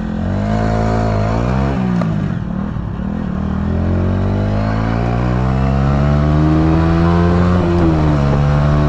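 Honda motorcycle engine accelerating hard through the gears. Its pitch rises, drops at a shift about two seconds in, climbs for a long stretch, and drops again at another upshift near the end.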